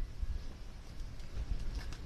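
Outdoor ambience: wind buffeting the microphone in an uneven low rumble, with a few faint ticks near the end.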